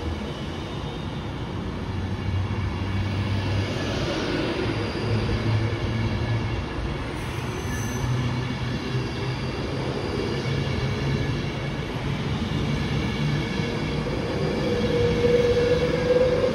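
Passenger train running through the station with a steady rumble. Near the end a higher whine grows louder and rises slightly in pitch.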